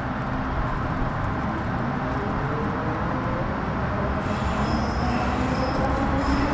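Metro Cammell M-Train EMU running under GEC GTO chopper control. The chopper and traction motor whine glides steadily upward in pitch as the train gathers speed, over the rumble of wheels on rail. About four seconds in, thin high-pitched chopper tones cut in.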